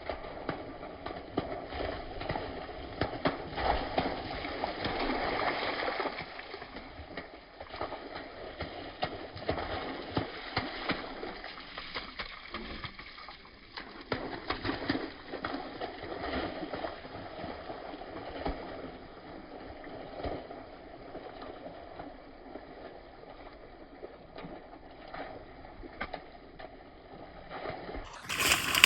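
A golden retriever's paws splashing through shallow rain puddles: many irregular wet slaps and splashes over a steady watery hiss. Near the end a louder, brighter sound cuts in.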